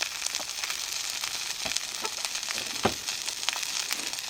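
Pork chops sizzling and spitting in a cast-iron skillet over a campfire: a steady frying hiss with frequent small crackles, and a short dull knock near three seconds in.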